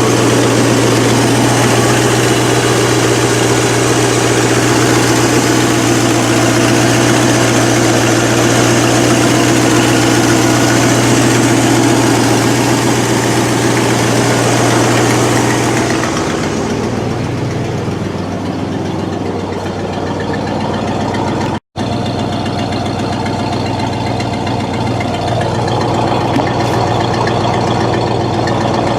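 Buick 350 V8 with a two-barrel carburettor idling steadily a few minutes after a cold start from six months of sitting. About sixteen seconds in the sound turns duller, and a few seconds later it cuts out for an instant.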